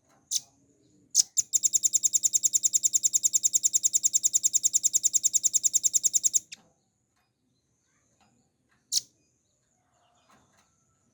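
Velvet-fronted nuthatch calling: two sharp high notes, then a long rapid trill of about ten notes a second that lasts about five seconds and stops suddenly. One more single note comes a couple of seconds later.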